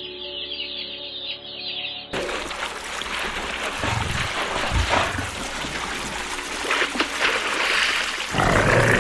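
Rapid bird chirping over a low steady hum, cut off about two seconds in by a noisy outdoor recording: a rushing, water-like hiss with a few low thumps and a louder burst near the end.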